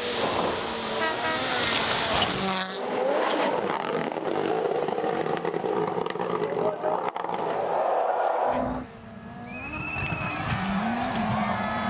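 Rally cars at full speed on gravel stages, in a run of short clips that cut off suddenly about three and eight seconds in. The engines run hard with rising revs and quick gear changes, mixed with gravel and tyre noise.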